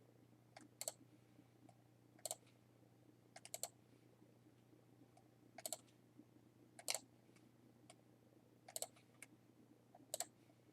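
Computer mouse clicks, single and in quick pairs, about one every second or so, over a faint steady low hum.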